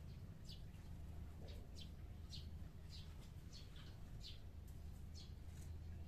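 Small birds chirping: short high chirps, about two a second, over a steady low hum.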